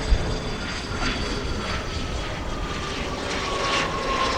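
Airliner's engines running with a steady rumble and a whine that falls slowly in pitch as the aircraft passes. A brief low thump comes just after the start.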